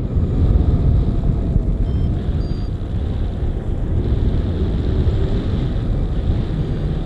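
Strong wind buffeting the microphone: a loud, irregular low rumble with no voices.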